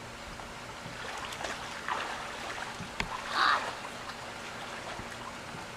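Steady rush of water and motor noise aboard a moving boat, with one short, loud, high-pitched cry about three and a half seconds in.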